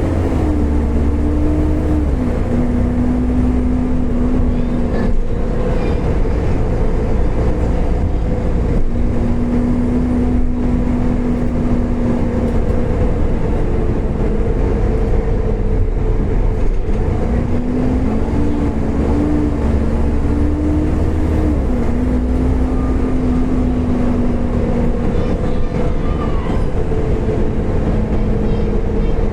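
Volvo B7TL double-decker bus under way, its engine and drivetrain running steadily with a prominent whine. The whine rises and then steps down in pitch twice, near the start and again about three-quarters of the way through: the vacuum-cleaner-like 'Hoover' sound.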